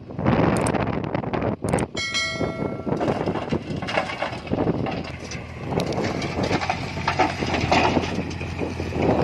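Heavy diesel machinery running steadily, with wind buffeting the microphone and a brief high whining tone about two seconds in.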